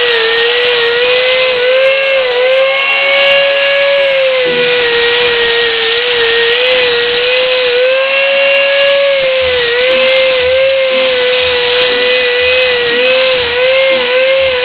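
An electric power saw's motor runs at a steady high whine while cutting wood, its pitch dipping briefly again and again as the blade takes load.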